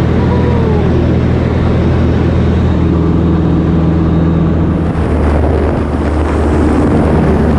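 Loud, steady drone of a Cessna light aircraft's piston engine and propeller, with a few low tones that shift about halfway through.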